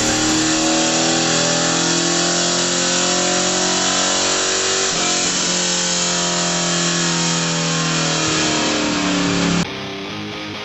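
1996 Pontiac Firebird Formula WS6's 5.7-litre LT1 V8 at full throttle on a chassis dynamometer, its pitch climbing steadily. About halfway the pitch drops, then it climbs again. It cuts off suddenly near the end.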